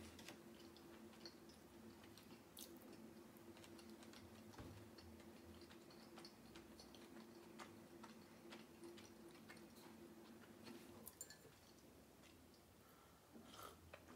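Faint close-up chewing of a small open sandwich of yeast-free bread, goat cheese, cucumber and chuka seaweed, with scattered soft mouth clicks. A low steady hum runs underneath and stops about eleven seconds in, and near the end comes a sip of milky coffee from a glass mug.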